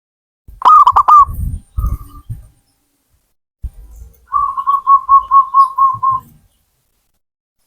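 Zebra dove (perkutut) cooing. A quick run of rising-and-falling notes about a second in, a short note, then from about four seconds a steady series of about nine even coos. Low rumbling sits under the first phrase.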